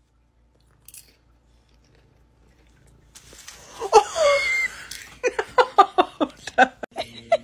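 Near silence, then about four seconds in a woman's startled cry, followed by a burst of laughter in quick pulses, about six a second.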